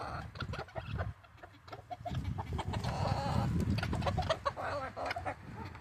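Chickens clucking, with a low rumble through the middle.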